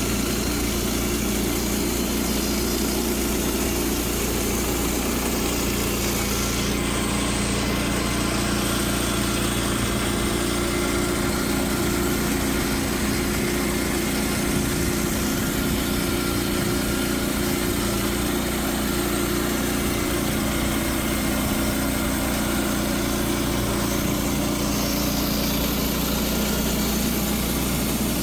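Woodland Mills HM122 portable band sawmill running steadily, its gas engine holding an even speed.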